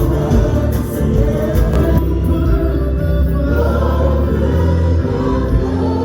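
Gospel choir singing worship music over a steady, heavy bass.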